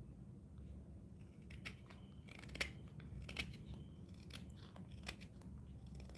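A hand carving tool making short, sharp cuts into wood, about eight irregular snicks, the loudest about two and a half seconds in, over a faint steady low hum.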